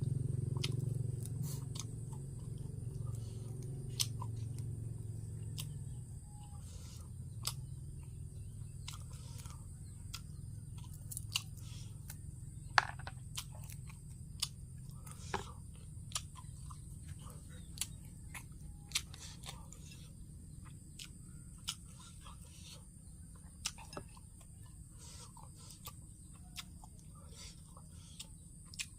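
A person eating pounded papaya salad with grilled shellfish: close-up chewing and crunching, with sharp clicks scattered every second or two. A low rumble at the start fades out over the first several seconds.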